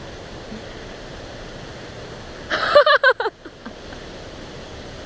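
Steady wind rush on the microphone, with a short, loud shout from a boy about two and a half seconds in.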